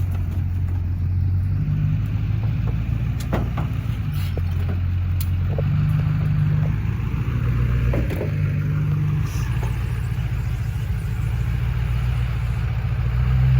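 A vehicle engine running, its low drone stepping up and down in pitch every few seconds, with a few scattered knocks and clatters.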